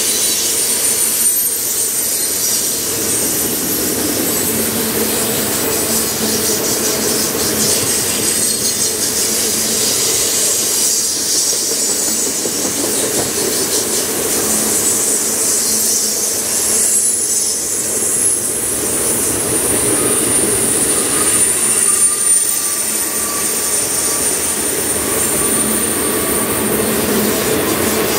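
Freight train of covered hopper cars rolling past, a steady loud noise of wheels on rail with thin, high-pitched squealing from the wheels.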